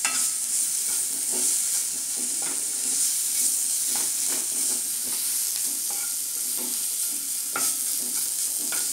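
Chicken keema with onion-ginger-garlic paste and ground spices sizzling in oil in a non-stick frying pan, with a spatula scraping the pan in short, irregular strokes as it is stirred and broken up.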